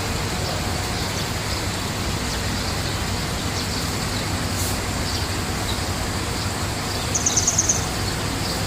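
Small birds chirping, with a quick high trill of several rapid notes near the end, over a steady rushing background noise.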